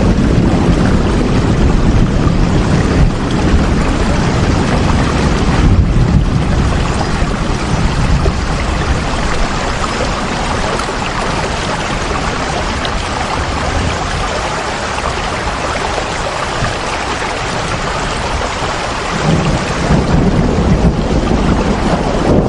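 Steady rain falling, an even hiss. A deep low rumble underneath is strongest at the start, fades through the middle and swells again near the end.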